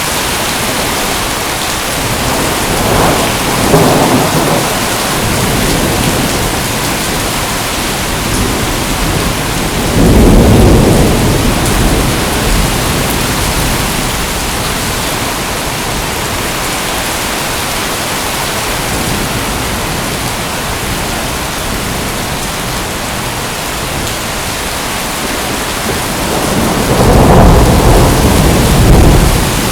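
Steady rain with thunder rumbling three times: about three seconds in, again around ten seconds, and a longer rumble near the end.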